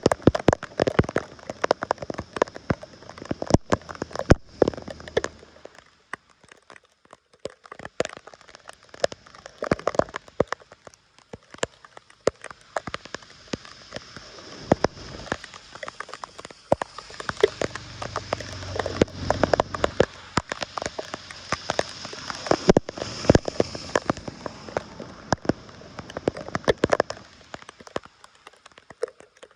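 Water pattering and splashing: a dense, uneven patter of small drops and splashes. A steadier rush of moving water builds about halfway through.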